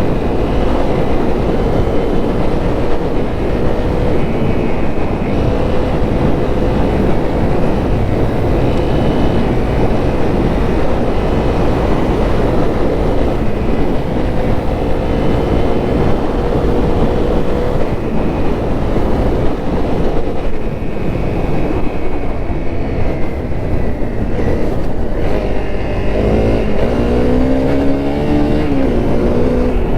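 Honda CRF250L's single-cylinder four-stroke engine running under way, over a steady rushing noise; the engine pitch holds steady for most of the time, then rises and falls several times near the end as the revs change.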